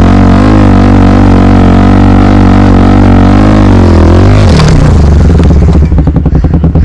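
Honda XR 250 Tornado's single-cylinder four-stroke engine running steadily under way, its pitch wavering slightly. About four and a half seconds in the revs drop and the separate firing pulses come through as it slows.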